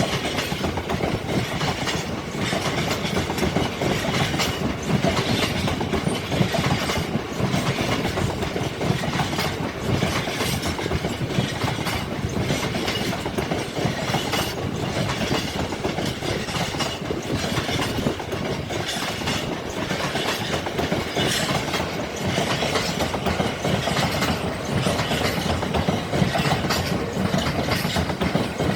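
Freight train wagons rolling past, wheels clattering over the rail joints in a steady run of clicks and knocks.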